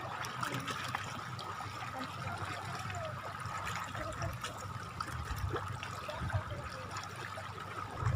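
Shallow sea water trickling and lapping at the shoreline, with small scattered clicks and a faint steady high tone.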